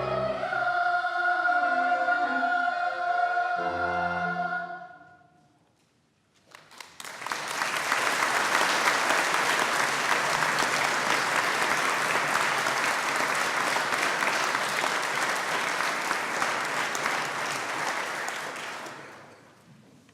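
Children's choir ending a song on a held final chord that dies away. After a second or so of silence, an audience applauds steadily for about twelve seconds, then the clapping fades out.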